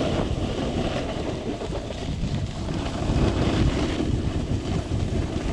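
Strong wind buffeting the microphone: a steady, low rushing rumble.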